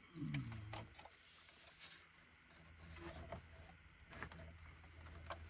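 Faint, scattered clicks and light knocks of hands and tools working at plastic clips and connectors in a car's engine bay, with a brief falling grunt at the start.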